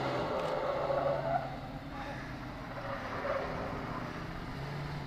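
Engines of the General Lee, a 1969 Dodge Charger, and a chasing police car running hard as the Charger spins its tyres and slides, loudest about a second in.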